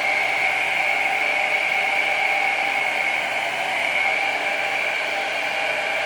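Handheld hair dryer blowing steadily, with a constant whirring hiss and a high whine, drying Got2b spray to set the wig's lace.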